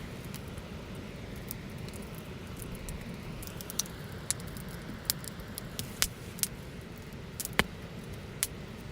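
Wood campfire crackling: sharp pops and snaps scattered over a steady low rumble. The pops come more often from about halfway through, the loudest near the end.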